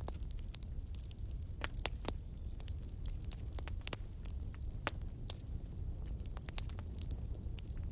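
Wood fire burning in a fireplace: a low steady rumble of the flames with irregular sharp crackles and pops, the loudest about two seconds in and about four seconds in.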